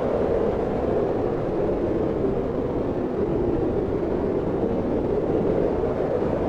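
Steady wind: a continuous, even rushing noise, deepest in its lower range, with no gusts or breaks.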